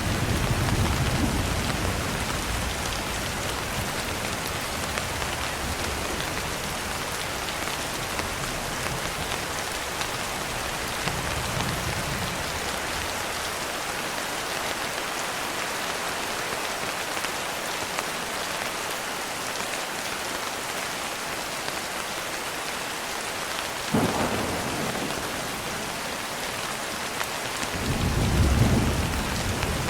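Steady heavy rain with thunder: a low rumble at the start, a sharp clap about four-fifths of the way through, and another rolling rumble near the end.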